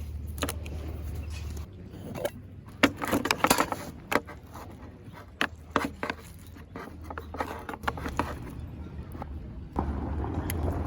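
Handling noises: a run of clicks, knocks and scrapes, thickest a few seconds in, over a low steady hum.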